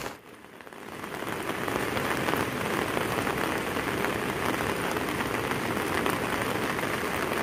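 Steady rain falling, a dense even hiss that fades in over the first second and then holds.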